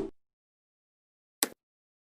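Short, sharp percussive hits from an edited intro's music or sound effects, in dead silence: the fading tail of a loud hit at the very start, then a brief sharp hit about one and a half seconds in.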